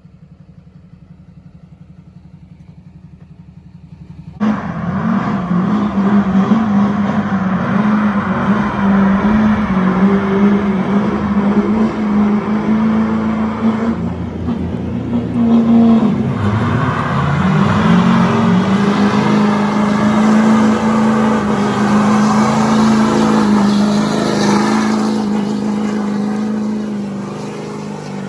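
A vehicle engine ticking over quietly, then suddenly revved hard about four seconds in and held at high revs for some twenty seconds, dipping briefly midway before easing off near the end, with a loud rushing noise over the engine note.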